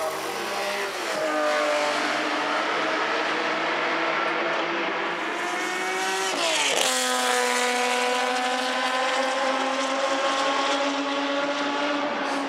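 Historic racing car engine accelerating hard, its pitch rising. About seven seconds in the car passes close by with a sudden drop in pitch, then holds a steady lower note as it pulls away.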